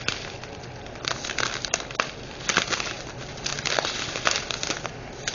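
Small plastic bags of diamond-painting drills being handled, crinkling, with scattered sharp clicks throughout.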